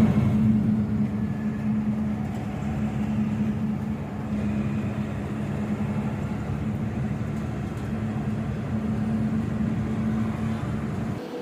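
Truck engine running steadily, a low drone that cuts off abruptly near the end.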